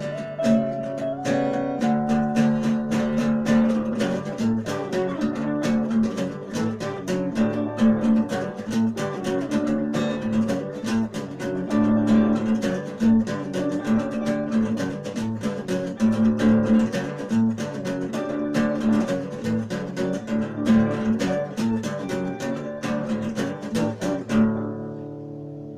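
Acoustic guitar music, plucked and strummed, stopping near the end with the last notes ringing away.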